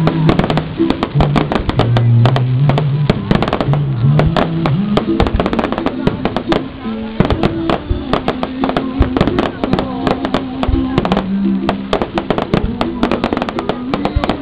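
Fireworks bursting overhead in a dense, irregular run of bangs and crackles, over music.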